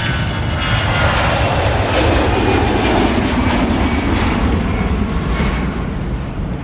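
Airplane engine noise as an aircraft passes overhead: a dense, steady rush that swells toward the middle and eases off near the end.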